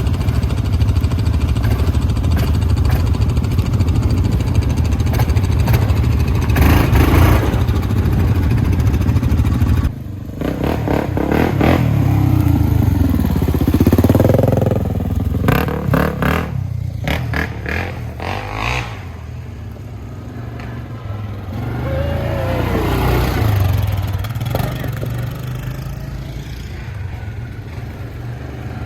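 Off-road vehicle engines running and revving, their pitch rising and falling several times. The rumble drops off suddenly about ten seconds in.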